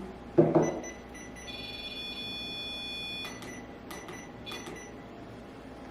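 A knock about half a second in, then a ghost-hunting EMF alarm device going off: a held electronic multi-tone beep lasting about two seconds, then three short beeps. It is triggered by its electromagnetic-field sensor.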